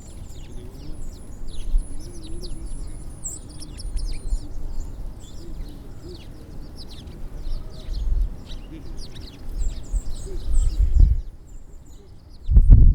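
Many small birds at a winter bird feeder chirping and calling in quick, overlapping notes, under a low rumbling background with a few louder low bursts. The chirping stops abruptly about eleven seconds in.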